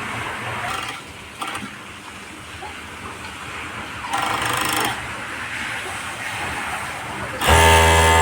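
Jack E3 overlock sewing machine motor running in short bursts: a brief, fainter run about four seconds in, then a louder, steady-pitched run of about a second near the end.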